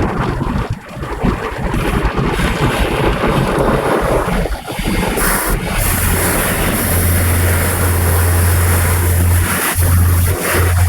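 Water jets of an automatic car wash rushing and pounding on a car, heard from inside the cabin. A steady low hum joins about six seconds in.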